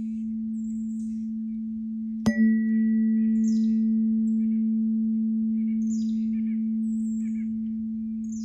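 Third eye chakra tuning fork ringing with a steady, pure low hum. It is struck again about two seconds in, with a brief bright ping at the strike, and the hum swells and then slowly fades. Birds chirp over it.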